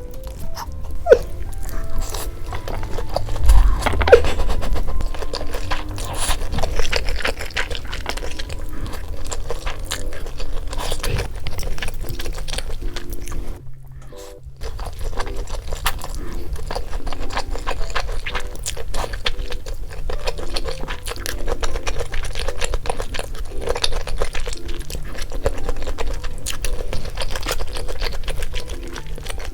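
Close-miked crunching and chewing of crispy fried chicken, with light background music underneath and a brief break about halfway through.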